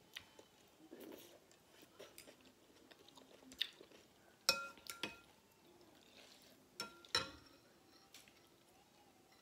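Eating sounds: chewing of noodle soup with pork and shrimp, with utensils clinking against the bowl, the two loudest clinks about four and a half and seven seconds in, each ringing briefly.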